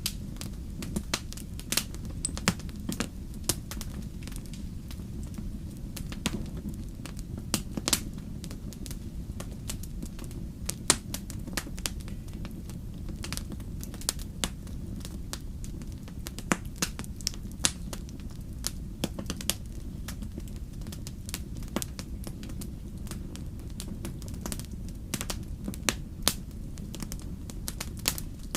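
Wood fire crackling, with sharp irregular pops and snaps several times a second over a steady low rumble.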